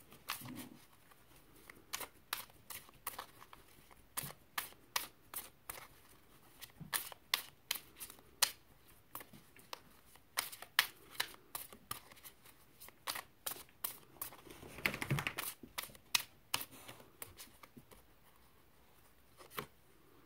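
Tarot cards being shuffled by hand: a long run of irregular card snaps and flicks, a few a second, with a denser rustle of cards about three quarters of the way through.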